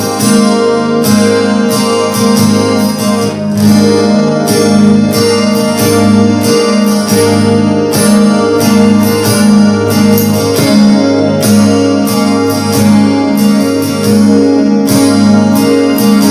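Electro-acoustic guitar played through a Landscape Angel Chorus pedal with the chorus effect switched on, strummed in a steady rhythm of chords.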